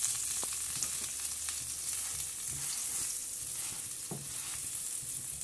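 A sandwich frying in melted butter in a nonstick pan, a steady sizzle, with a few light taps of a spatula against the pan.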